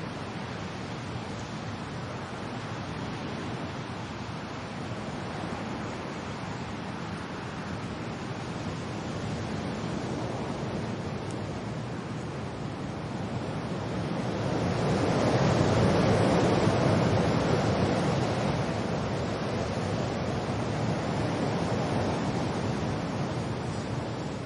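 Wind and rain: a steady rushing noise that swells into a stronger gust about fifteen seconds in, then slowly eases.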